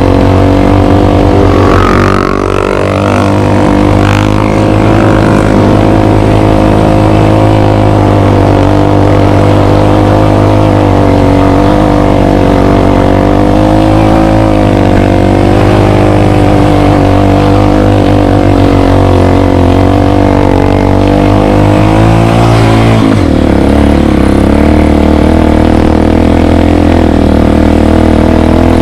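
Dirt bike engine running while being ridden, its pitch rising and falling with the throttle, with an abrupt change in tone about 23 seconds in.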